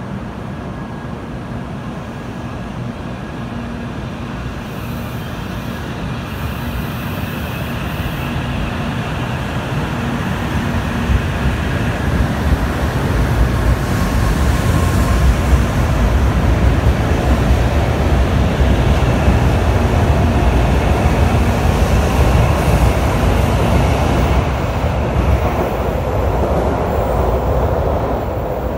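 N700 series Shinkansen pulling out of the station and running past on the adjacent track: a deep rumble of wheels and running gear that grows louder as it gathers speed, then eases as it draws away near the end.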